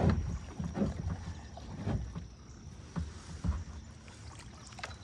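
A kayak being paddled through shallow water: five or so irregular, dull knocks and splashes from the paddle and hull over a faint, steady wash of water.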